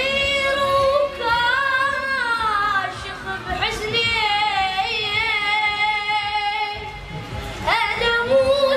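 A high voice singing long, ornamented, wavering held notes in the style of an Iraqi eulogy reciter, in three phrases with short breaths about 3 and 7 seconds in.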